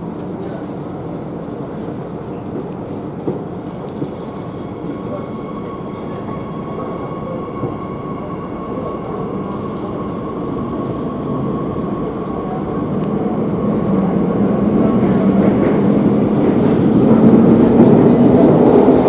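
Madrid Metro series 8000 train heard from inside the car as it gathers speed: rumbling wheel and track noise with a faint steady motor whine, growing steadily louder over the second half.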